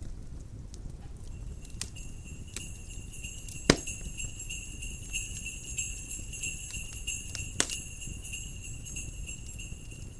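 Jingle bells shaking in a steady, continuous jingle that starts about a second in, over a crackling wood fire with two loud pops, one near four seconds and one near eight.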